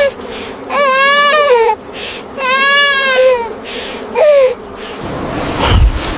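A young child crying in high-pitched, wavering wails: three cries with short gaps between them, the last one brief. Near the end the crying gives way to a rushing noise with a low thud.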